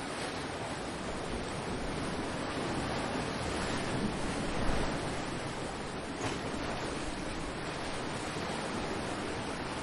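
Ocean waves washing in as a steady, even rush of surf, with a brief low bump about halfway through.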